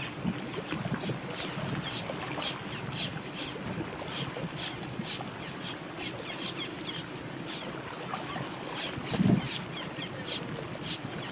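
Wind buffeting the microphone over open water, with many short high ticks and splashes throughout and a stronger gust about nine seconds in.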